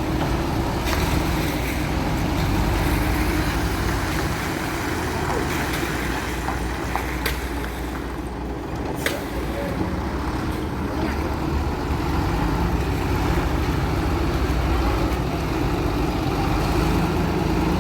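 Heavy truck's diesel engine running steadily with a low rumble, with a couple of sharp clicks about seven and nine seconds in.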